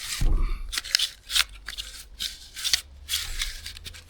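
Recoil starter pulley of a Honda GX390 pull-start being turned round by hand in its housing to wind up the recoil spring: a run of irregular short scraping rubs and clicks, about two a second, with a low knock just after the start.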